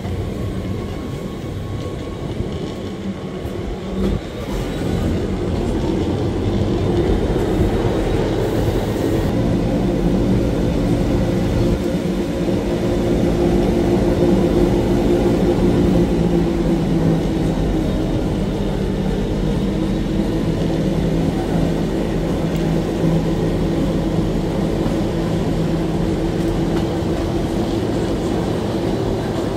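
Electric rack-railway train of the Wengernalpbahn running, heard from on board: a steady rumble with a hum of several tones, growing louder about five seconds in and then holding steady.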